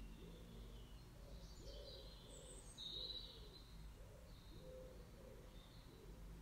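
Near silence: a steady low room hum with faint bird chirps, the clearest one about three seconds in.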